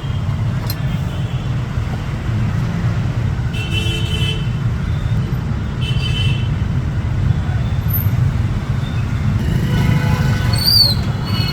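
Steady road-traffic rumble with two short vehicle horn toots about four and six seconds in, and a few high chirps near the end.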